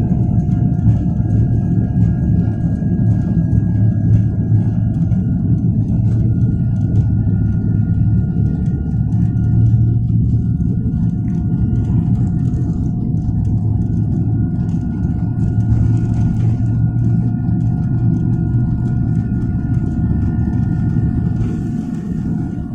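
Jet airliner's engines running at takeoff power, heard inside the cabin: a loud, steady rumble with a steady whine above it.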